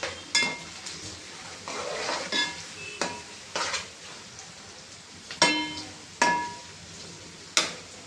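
Onions frying in hot oil, sizzling steadily, while a metal spoon stirs them and clinks against the pan about seven times, each clink ringing briefly.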